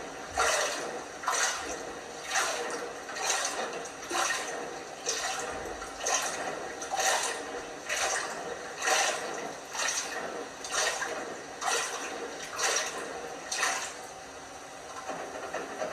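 LG washing machine drum turning a load of toy rubber snakes through water, a rhythmic swish of sloshing water about once a second. The swishing stops about two seconds before the end, leaving a quieter steady hiss.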